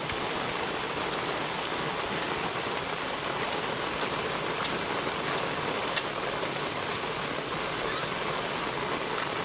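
Heavy rain pouring down in a steady, even rush, with a few sharp drips standing out now and then.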